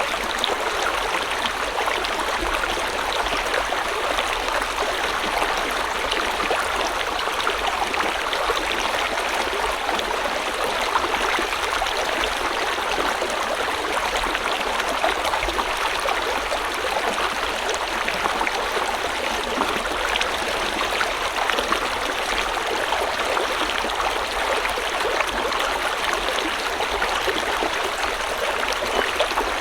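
A river flowing steadily, water rushing and splashing over stones with a constant even rush.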